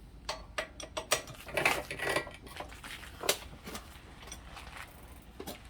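Metal hand tools and bike parts clinking in a string of sharp irregular clicks as a pedal is being worked off an e-bike crank arm. The clicks are densest in the first few seconds, with one louder clink about three seconds in.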